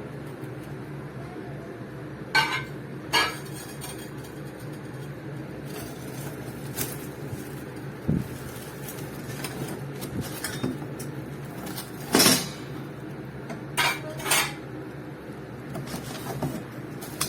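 Metal and glass cookware parts being handled, giving several separate sharp clinks and clanks spread over the stretch, over a steady low hum.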